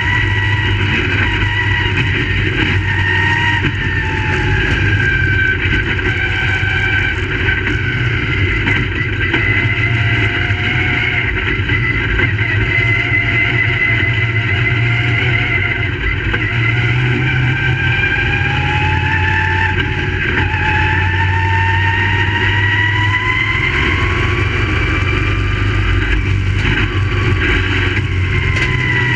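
Several dirt-track race cars' V8 engines running together at racing speed, their overlapping pitches gliding up and down as they accelerate and back off.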